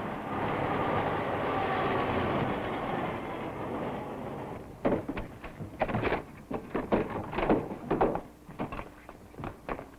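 A car engine running loudly, then fading away over the first four seconds or so. It is followed by a run of sharp, irregular thuds and blows from a scuffle.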